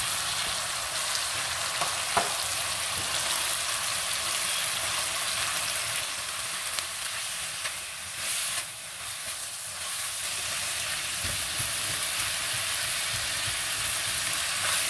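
Chicken strips, sliced onions and green and red bell peppers sizzling in oil in a wok over a high flame as they are stir-fried, the spatula stirring through them. A steady frying hiss with a light tap about two seconds in.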